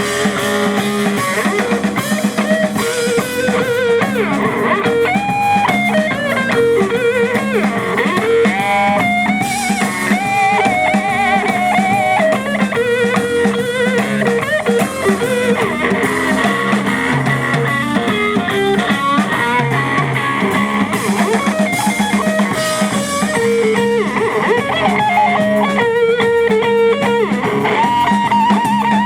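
Live blues-rock band in an instrumental break: a lead electric guitar plays a melody of bent, wavering notes over bass and a drum kit.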